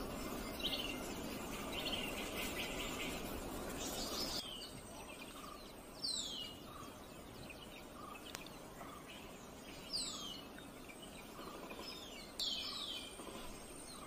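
Male black sicklebill calling: three sharp calls, each a quick whistle sliding steeply down in pitch, a few seconds apart, over forest background hiss that drops off about four seconds in.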